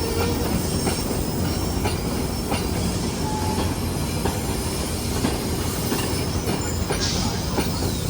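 GO Transit commuter train running at speed on the rails: a steady low rumble of wheels on track, with scattered faint clicks from the rail.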